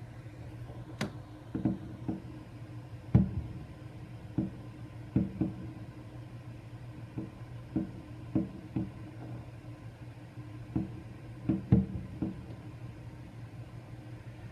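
Fireworks going off: a string of irregularly spaced bangs and pops, the loudest about three seconds in, over a steady low hum.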